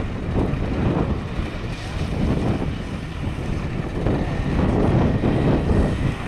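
BMW saloon car's engine running as it is driven through a slalom course, under heavy wind buffeting on the microphone.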